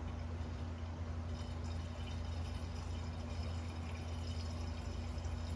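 Coolant pouring into a car radiator as it is filled, over a steady low hum.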